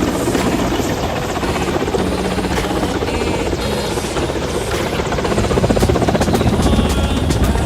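Helicopter rotor beating steadily with the engine whine underneath, close and loud, swelling a little about two-thirds of the way through.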